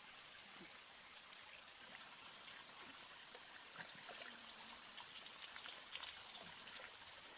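Faint outdoor ambience: a soft, even hiss with scattered small ticks and a steady high-pitched whine.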